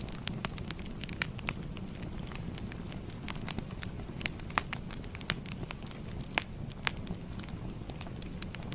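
Fire crackling: irregular sharp pops and snaps, several a second, over a low steady rush.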